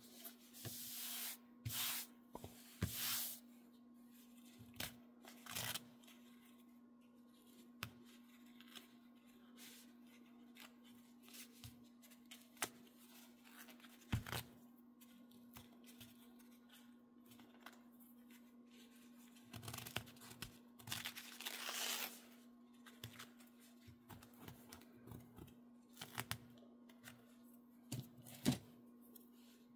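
Embroidery stabilizer being torn away by hand in several short bursts, the longest about 20 seconds in, with small clicks and taps of handling between them. A faint steady hum runs underneath.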